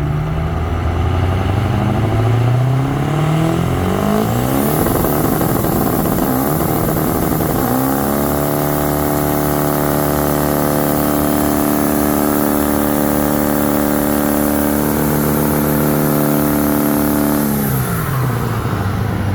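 A truck engine revving hard, its revs climbing in several short rising pulls, then held steady at high revs for about ten seconds before dropping off near the end.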